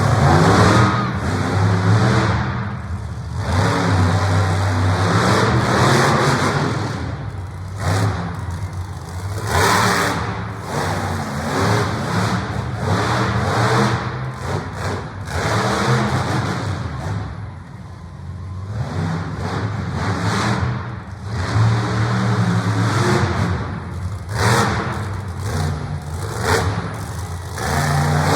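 Monster truck engine revving hard in repeated surges, rising and falling every couple of seconds.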